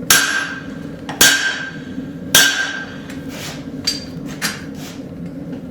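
Hammer blows on a blacksmith's guillotine tool, forging a hot railroad spike to set in the blade. Three heavy strikes about a second apart, each ringing briefly, then a few lighter taps.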